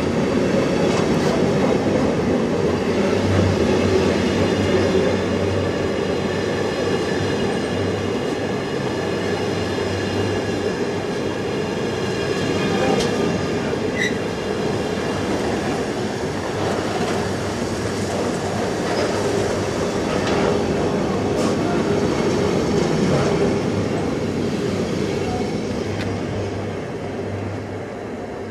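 Container flat wagons of an intermodal freight train rolling past: a steady rumble of wheels on rail, with a thin high squeal ringing over it and a few sharp clicks over rail joints. It fades near the end as the last wagon goes by.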